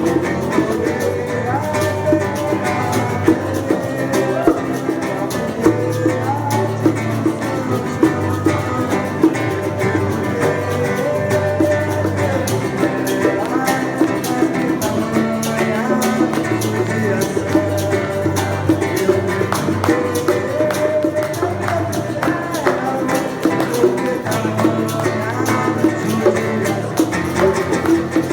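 Live acoustic guitar (violão) playing an instrumental passage, with a moving melody and bongo drums keeping a steady beat.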